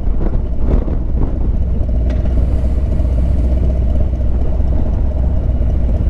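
Harley-Davidson V-twin motorcycle engine running steadily at low road speed: a deep, even rumble with a constant hum above it and some wind on the microphone.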